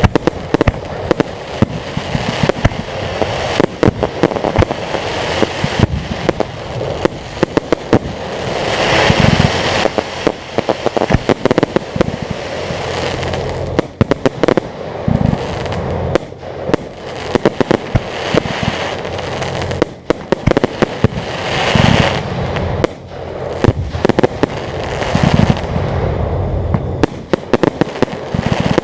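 Fireworks display going off: a dense run of crackling and popping shells, with several heavier booms and louder swells about a third of the way in, around the middle and again late on.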